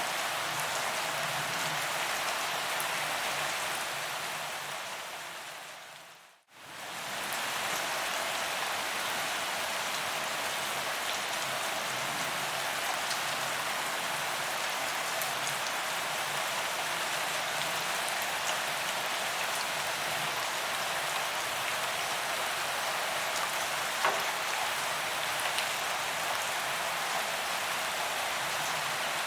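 Steady rain falling on a paved promenade, a dense even patter of drops on the ground. About six seconds in it fades away to near silence and returns within a second.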